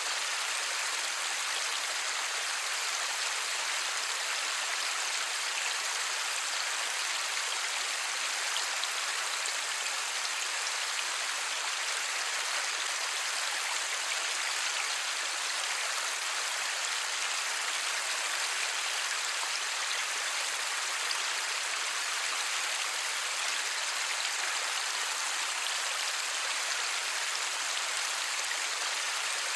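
Steady light rain falling, an even hiss with no thunder.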